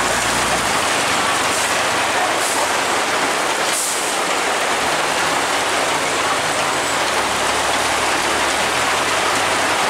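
Steady heavy rain, with a vehicle engine running low underneath; the engine's pitch shifts about a second in and again near the seven-second mark.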